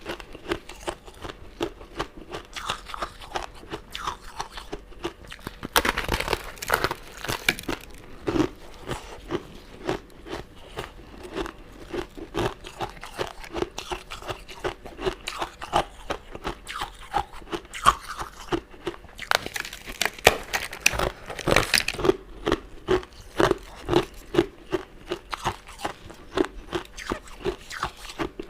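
Close-miked eating of sugar-crusted candy and jelly sweets: steady crunching and chewing with dense crackles, louder crunchy bites about six seconds in and again around twenty seconds in.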